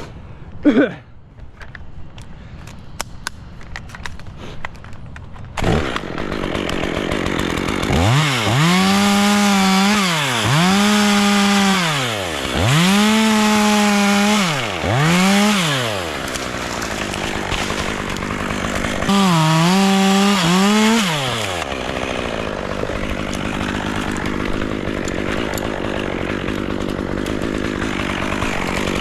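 Chainsaw started up in a tree almost six seconds in, after a few clicks and a knock. It is revved to full throttle and back about five times, and runs at a lower, steady speed in between and near the end.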